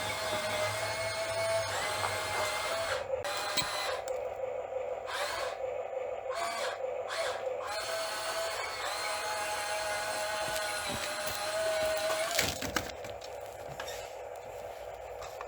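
Whine of a radio-controlled hydraulic model's pump motor running, its pitch wavering slightly as it works, easing off near the end.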